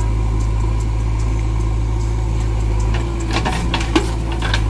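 Heavy diesel engine running steadily with a deep, even hum. About three seconds in comes a quick run of sharp knocks and clanks.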